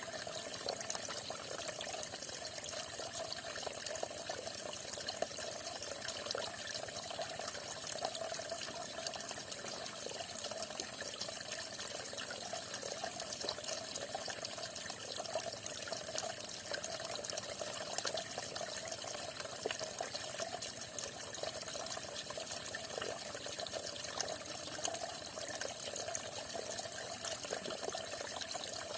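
Falling water splashing steadily, with a constant rushing and many small scattered splashes.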